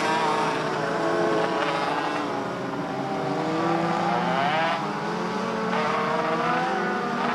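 Several small race car engines running together on pace laps, before the green flag. Their overlapping notes rise and fall in pitch as the cars circle the track.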